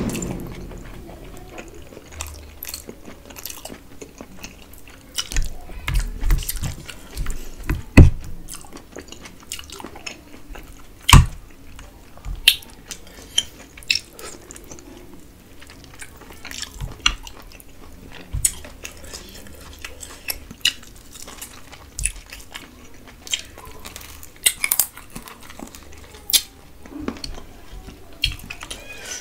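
Close-miked eating by hand: wet chewing and lip smacks on mouthfuls of rice and duck curry, with fingers squishing and mixing rice against a stainless steel plate. Short, irregular clicks and smacks, a few louder ones standing out.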